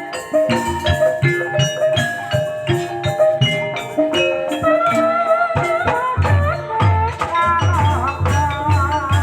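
Gamelan music in campursari tuning for an ebeg dance: struck metallophones play a busy melody, and deep drum beats come in strongly about six seconds in, about two a second.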